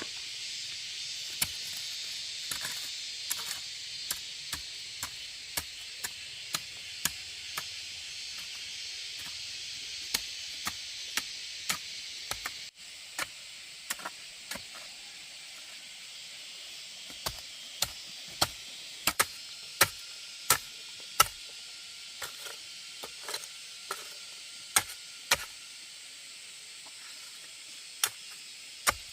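Repeated sharp chopping strikes, one to two a second with short pauses, over a steady hiss.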